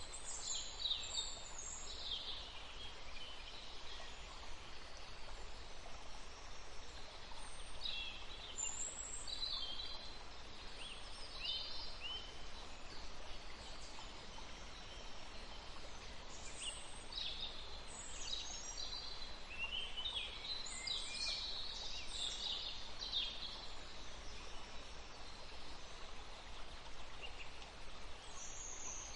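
Several small songbirds chirping and trilling in short high-pitched bursts that come in clusters with brief lulls between them, over a steady background hiss.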